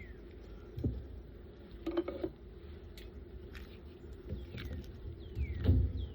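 Honeybees humming steadily over an open hive while a queen excluder and hive parts are handled: several short knocks and clatters, the loudest thump near the end. A few short falling chirps sound high above the hum.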